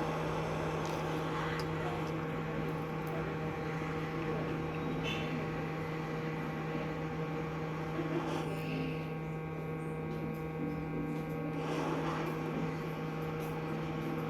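Steady electrical mains hum over a hiss of air from workbench equipment; the hiss thins for a few seconds past the middle.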